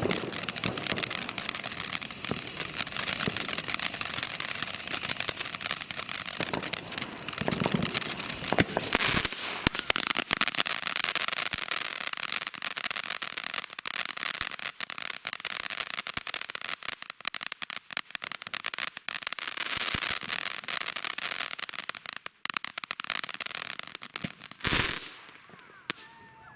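Dominator Powder Keg hybrid fountain firework burning: a continuous hissing spray packed with rapid crackling pops. It flares louder about nine seconds in and ends with a loud bang near the end, then dies out.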